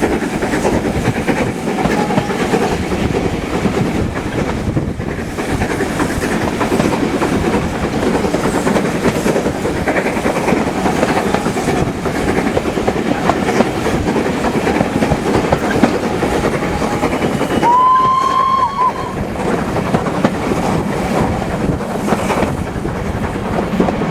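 Train running on jointed track with a steady clickety-clack of the wheels. About eighteen seconds in, a brief whistle sounds for about a second.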